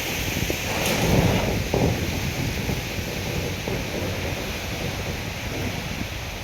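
Wind noise: gusty wind buffeting the microphone, with a steady hiss, swelling about a second in.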